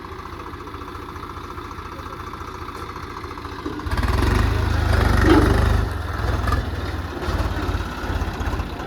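Tractor diesel engine running steadily, then much louder for about two seconds from around four seconds in, as if put under load or given throttle, before settling back.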